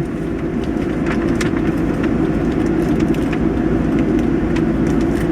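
Steady rumble of idling and passing vehicle engines in held-up traffic, with a few light clicks.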